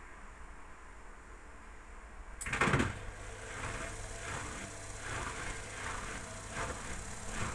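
Indesit WIL82 front-loading washing machine starting its drum: a sudden loud rush about two and a half seconds in, then the drum turning with a swish of laundry about every 0.7 s.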